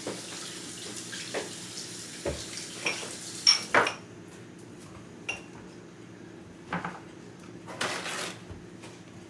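Dishes and utensils clinking and clattering at a kitchen sink, with a few sharp knocks, the loudest about three and a half seconds in; a faint hiss of running tap water underneath stops about four seconds in.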